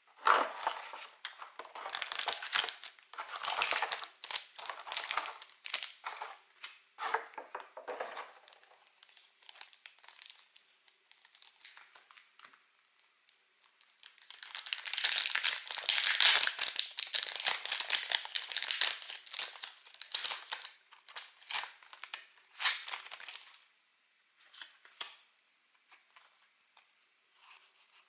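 Pokémon card box packaging wrappers crinkling and tearing as they are pulled open by hand, in two long stretches, the second starting about halfway in, with faint handling rustles between and after.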